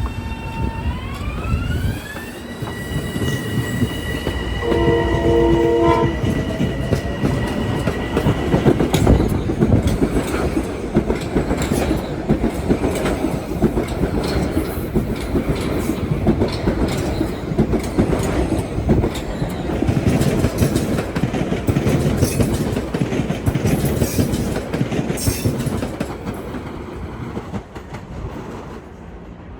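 Metro-North commuter train at a station: a rising whine near the start that levels off into a steady tone, one short horn blast about five seconds in, then the train passing with loud wheel and rail clatter for about twenty seconds, fading near the end.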